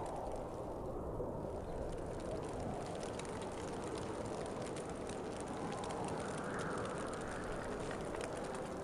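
Wind blowing steadily, a low rushing noise that swells slightly about two-thirds of the way through, with faint scattered ticks over it.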